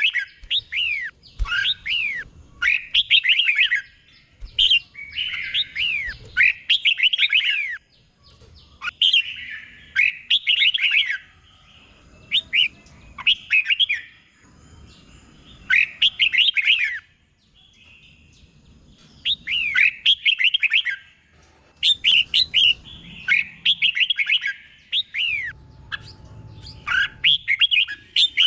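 Red-whiskered bulbul singing: short phrases of quick, rich whistled notes, each a tumble of falling whistles, repeated every second or two with brief pauses. The phrases often come doubled, the 'double' song prized in caged bulbuls.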